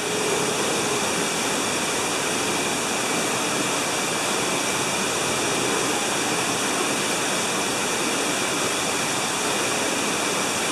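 Man-made waterfall on a mini golf course: a steady, unbroken rush of falling water.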